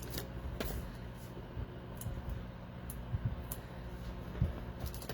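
A few faint, scattered clicks and light handling noises of paper-crafting supplies being worked on a desk, over a low steady hum.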